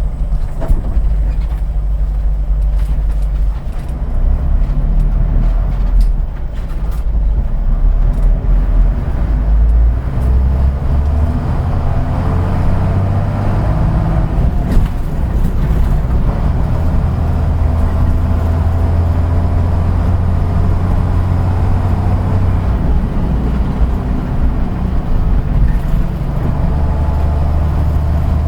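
Route bus engine and drivetrain heard from inside the bus while it is under way. The engine hum shifts pitch several times, and a rising whine builds through the middle as it picks up speed.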